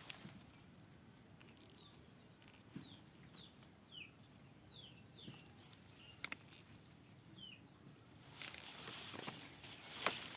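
Small bird chirping outdoors: a scattered series of about eight short, high, falling chirps over faint ambient noise, with two quick clicks just past the middle and a louder hiss of noise near the end.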